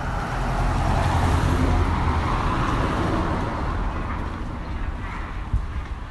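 A motor vehicle passing close by: road and engine noise swells over the first two seconds, then fades slowly. A single sharp knock comes near the end.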